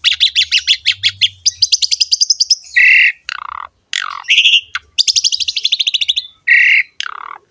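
Asian pied starling singing: rapid chattering trills of repeated high notes, broken by a few loud whistled notes and quick falling slurs.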